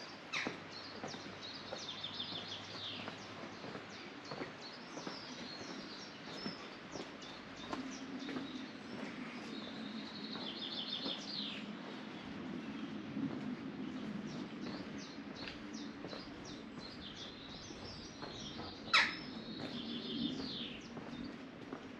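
Small songbirds singing, with short trilled phrases repeated every few seconds, and one sharp downward-sliding call about nineteen seconds in.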